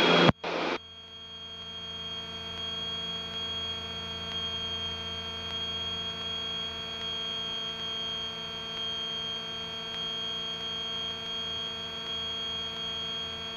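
Steady drone of a Grumman GA-7 Cougar's twin piston engines and propellers heard through the cockpit intercom, a set of unchanging tones with a thin high whine over a low hum. The engines are at approach power with the propellers set full forward.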